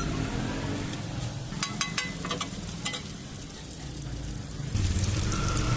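Food sizzling on a hot tawa griddle, with a quick run of sharp metal clicks about a second and a half to three seconds in, as from a spatula striking the pan. A low rumble comes in near the end.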